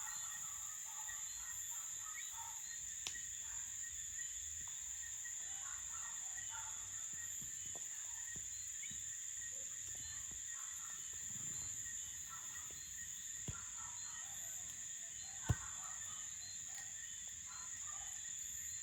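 Crickets chirping in a steady high-pitched chorus, with scattered fainter chirps. A few sharp pops cut through, the loudest about fifteen seconds in.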